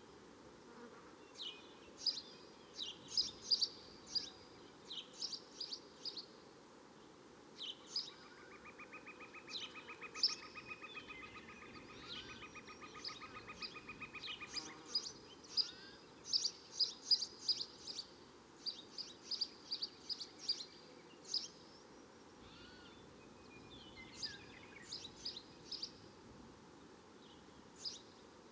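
Swamp and jungle birds chirping in short, quick high notes, some in rapid runs, over a steady background hiss. A buzzing trill joins in for several seconds around the middle.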